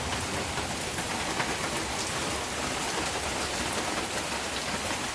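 Heavy rain falling steadily in a thunderstorm, a dense even hiss of rain with scattered drop impacts.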